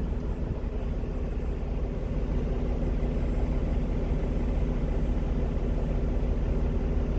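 Cummins ISX diesel engine of a Kenworth T800 idling steadily, a constant low hum with no change in speed.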